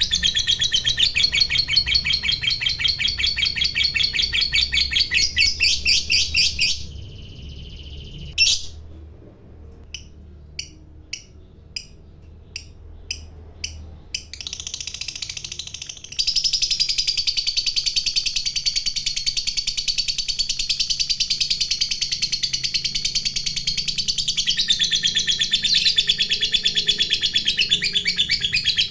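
Lovebird giving its long, rapid chattering song ('ngekek'), a fast run of high chirps. It breaks off about seven seconds in, leaving a sharp single note and a few short chirps, then starts up again about sixteen seconds in and runs on.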